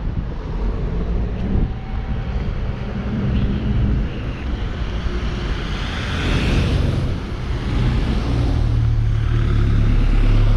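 Street traffic: motor vehicles driving by, one passing close about six seconds in with a swell of tyre noise, and a heavy engine's low drone growing louder near the end.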